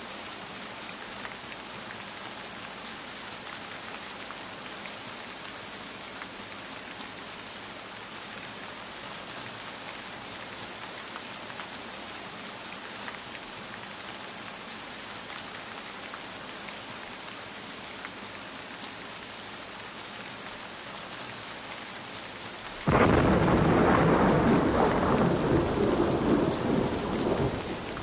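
Steady rain falling. Near the end a sudden, much louder clap of thunder breaks in, lasts about five seconds and fades.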